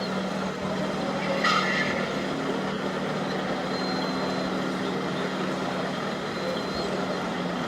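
Radio-controlled model trucks running, a steady low hum over background noise, with a short hiss about a second and a half in.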